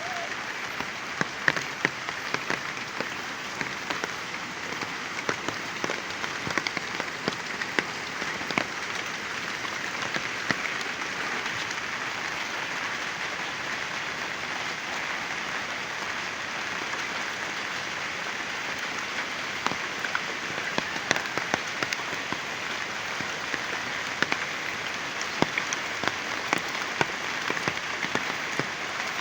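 Heavy rain falling steadily, with many sharp individual drop hits standing out from the hiss.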